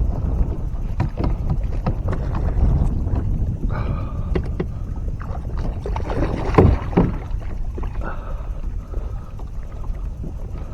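Water slapping and knocking against a small boat's hull, with a low wind rumble on the microphone and scattered clicks and knocks; one louder knock comes about six and a half seconds in.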